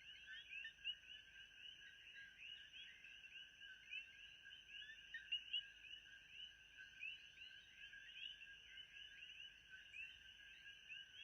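Faint, continuous chorus of many small animal calls: dense overlapping high chirps with a steady high thin tone above them, without a break.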